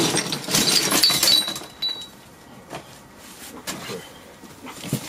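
Clattering and clinking of loose debris being shifted by hand, loudest in the first second and a half. A few brief high-pitched squeaks from newborn puppies come about a second in and again near two seconds.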